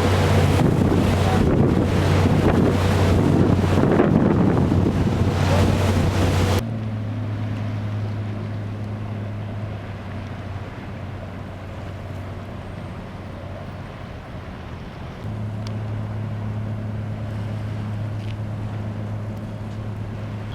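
Wind buffeting the microphone over a steady low engine drone from a passing ship. About six and a half seconds in the wind noise cuts away, leaving the steady drone, which grows louder again about fifteen seconds in.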